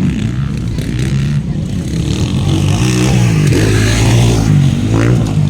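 Several motocross bikes racing, their engines revving up and down, with the pitches rising and falling over one another.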